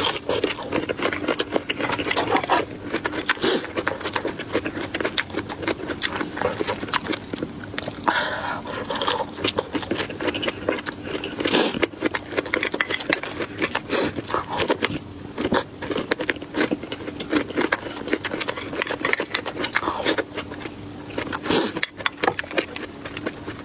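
Close-miked eating sounds: a person biting and chewing, with dense wet clicks and crunches throughout and a few louder bites.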